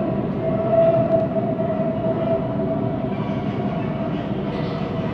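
Siemens Inspiro metro train running, heard from inside the carriage: a steady wheel-on-rail rolling rumble with a steady mid-pitched whine, which eases off after about three seconds. The rolling noise of this train is one the uploader calls weird.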